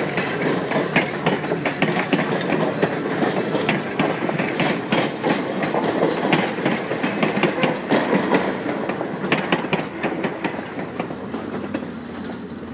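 Passenger train coaches rolling past close by, their wheels clicking over the rail joints in a steady clickety-clack over a rumble. The sound fades near the end as the last car moves away.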